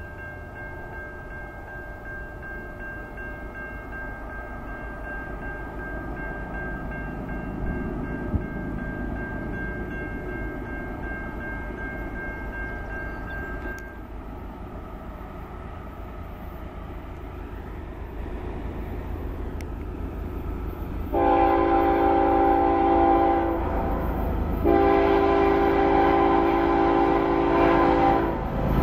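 Intermodal freight cars rolling past on the rails with a low, steady rumble and a thin steady ringing tone over it that stops about halfway through. Near the end a diesel locomotive's multi-chime air horn sounds two long blasts, much louder than the passing cars.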